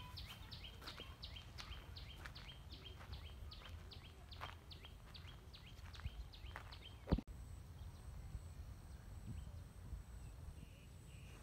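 A bird calling a rapid run of short, falling high notes, about three a second, which stops about seven seconds in at a single sharp click; after that only faint rural background remains.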